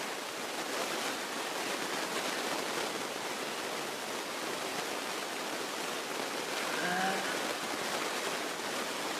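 Steady rushing cockpit noise of a Beechcraft Musketeer single-engine light plane taxiing along the runway.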